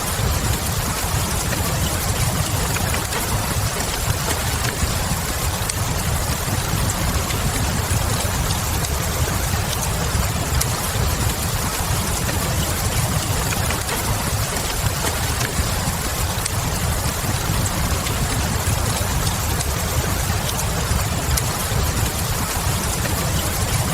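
Steady rain with a low rumble underneath and faint scattered crackles of a wood fire, an even, unchanging blend.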